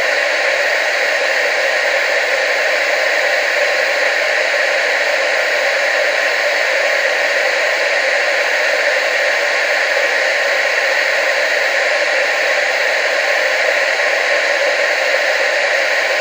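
Television static: a steady, even hiss with no low end, unchanging throughout.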